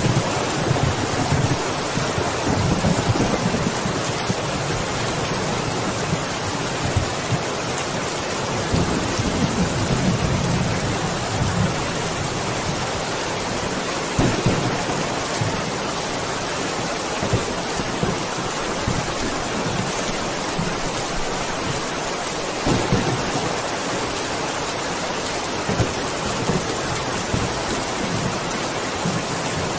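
Heavy rain pouring steadily, with low rolls of thunder coming and going, strongest in the first few seconds and again around ten seconds in.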